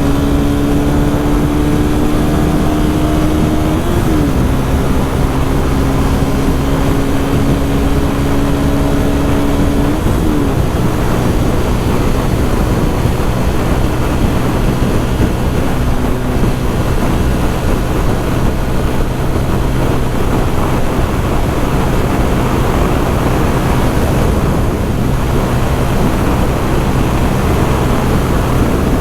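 Loncin GP 165cc single-cylinder motorcycle engine pulling hard at speed, its pitch dropping at two upshifts, about four and ten seconds in. It then settles into a steady drone at cruising speed under heavy wind rush.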